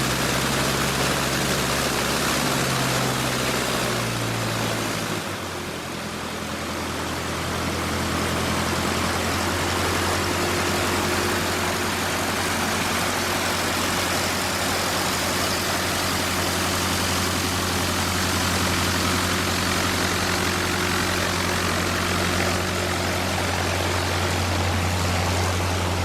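Propeller engine of a Socata Rallye 110 ST light aircraft running at low power; its pitch shifts over the first few seconds, drops about five seconds in, then holds steady.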